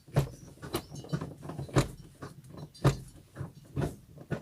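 Ford Fiesta Rocam gearshift linkage arms at the gearbox clicking and knocking as the gears are worked through, about one sharp knock a second. The arms have just been lubricated with WD-40: their bushings are worn and loose, which caused an iron-on-iron cracking noise on engaging the gears that now seems cured.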